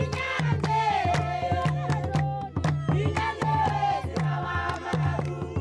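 Group of voices singing together over a steady drum beat of about two strokes a second, with sharp percussion clicks.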